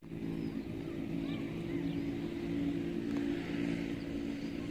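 A motor running steadily at an even pitch.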